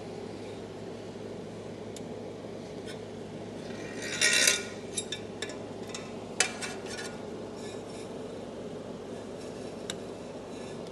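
Small hard parts being handled and pressed together by hand: a short rattling scrape about four seconds in, then a few light clicks and taps. A steady low hum runs underneath.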